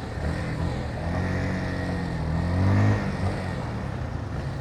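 Motorcycle engine accelerating, its pitch rising for about two seconds before it drops back near the end, over steady wind and road noise.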